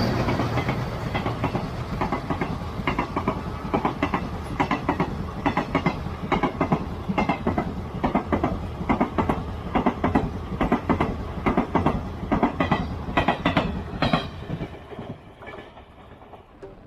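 Train wheels clattering rapidly over rail joints above a steady rolling rumble, fading away near the end.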